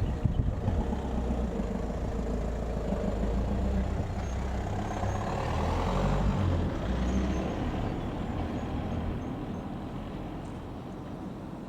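Diesel multiple-unit train's underfloor engines running, with the engine note changing in steps. It grows louder to a peak about six seconds in, then fades away.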